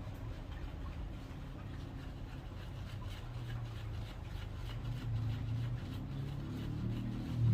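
Low rumble of street traffic that swells near the end as a vehicle draws close, with faint scratchy rubbing strokes over it.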